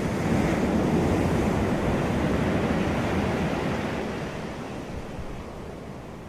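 Ocean surf: a wave washing in, loudest in the first second or two, then drawing back and fading over the next few seconds.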